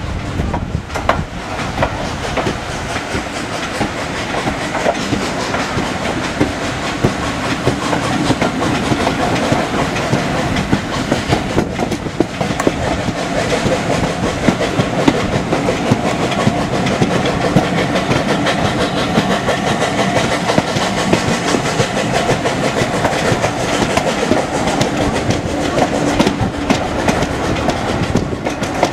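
A train running along the track, its wheels clattering steadily over the rail joints.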